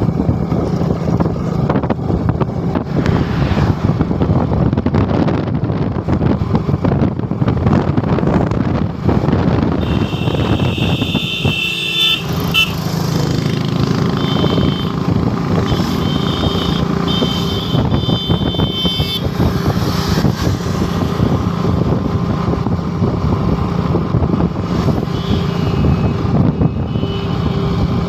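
Motorcycle engine running steadily while riding, mixed with rushing noise. From about ten seconds in, a high tone sounds on and off for several seconds.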